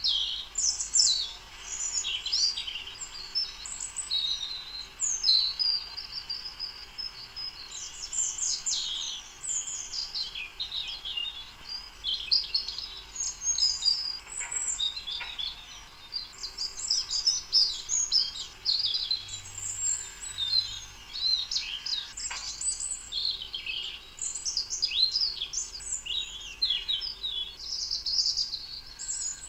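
A chorus of small birds singing and chirping, many quick high chirps and trills overlapping without a break.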